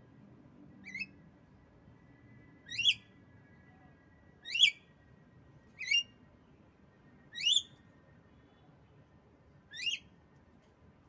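Female Javan myna giving short, sharp calls that rise in pitch, six in all, one every one and a half to two seconds.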